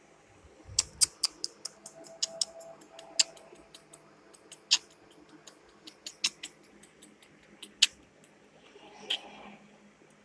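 Irregular sharp clicks of buttons being pressed, a few a second, stopping near the end, followed by a soft brief rustle.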